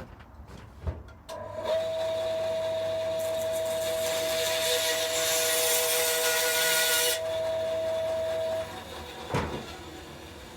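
A small power tool running with a steady whine, with a louder hissing stretch in the middle while it works wood, then stopping, followed by a single knock.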